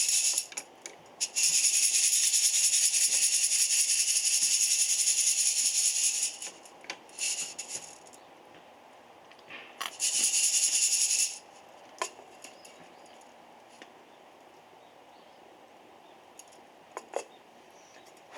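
Roasted coffee beans rattling as they are shaken in bursts, three spells of dense rattling that stop abruptly, followed by a few scattered clicks.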